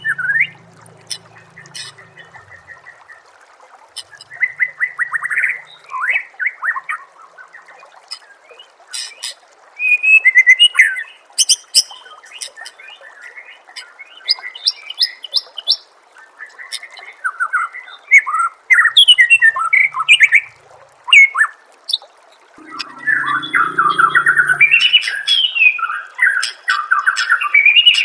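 White-rumped shama (murai batu) singing bursts of varied whistled phrases, trills and rapid chattering notes, with short pauses between them.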